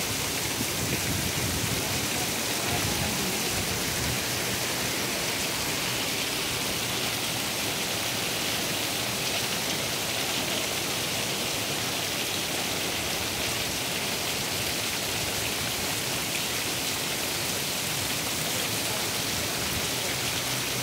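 Heavy rain falling in a steady downpour onto a flooded paved street, an even hiss with no letup.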